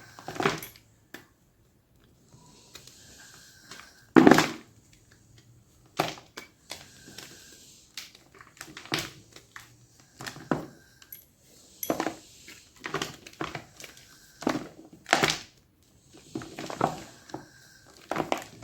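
Gym chalk crunching in a series of sharp, irregular crunches every second or two, the loudest about four seconds in.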